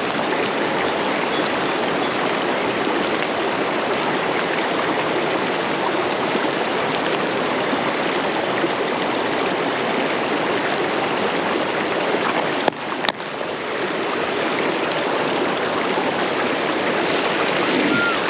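Fast-flowing stream water rushing steadily, with a brief dip and a sharp click about two-thirds of the way through.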